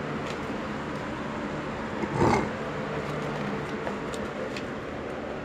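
Steady hum of electric fans running in a chicken run, with a brief louder sound about two seconds in.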